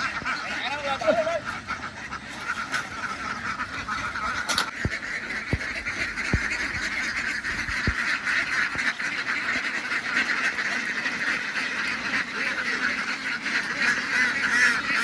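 A large flock of ducks quacking together in a dense, unbroken din, with a few sharp knocks about five to eight seconds in.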